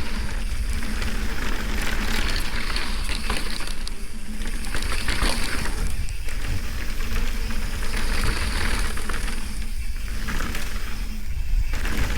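Mountain bike descending a dirt trail: wind rushes over the camera's microphone with a constant low rumble, while the tyres crunch over dirt and rocks and the bike rattles.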